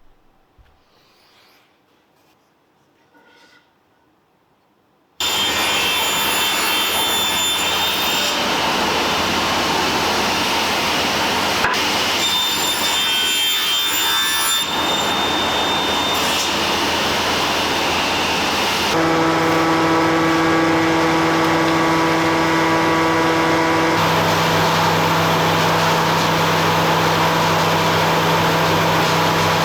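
Faint near-quiet for about five seconds, then a woodworking power tool starts abruptly and runs steadily with a whine through the rest, its tones shifting partway through, as it works wood.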